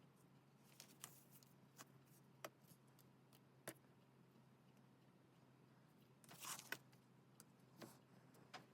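Quiet paper-craft handling at a desk: scattered light taps and clicks of paper and stationery being handled, with a brief rustle of paper about six seconds in.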